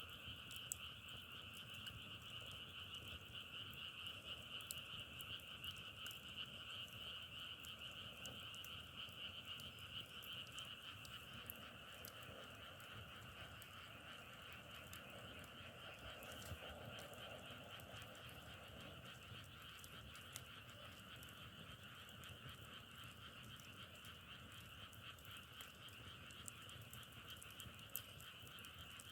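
Faint chorus of frogs calling continuously, a dense trilling in two pitch bands, with scattered faint clicks.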